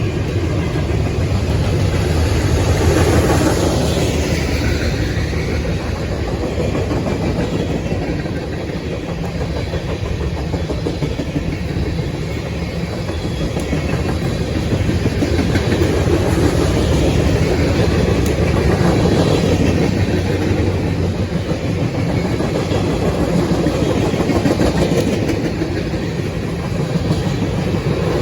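Cars of a mixed freight train rolling past steadily: a continuous noise of steel wheels on rail, its loudness swelling and easing as the cars go by.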